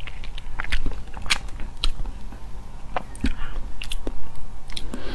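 Close-miked mouth sounds of someone eating soft, seed-filled red sugar apple flesh: wet chewing with irregular sharp clicks and smacks.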